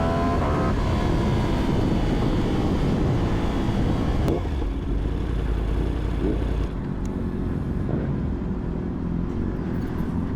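Yamaha R1 sport bike's inline-four engine rising in pitch under acceleration for the first moment, then mostly wind and road noise buffeting the rider's microphone. The noise eases about two-thirds of the way through.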